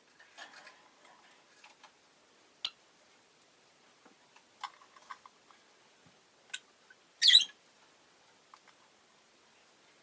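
Rose-faced lovebird giving a few sparse, short high-pitched chirps with small clicks between them; the loudest is a brief harsh squawk a little past the middle.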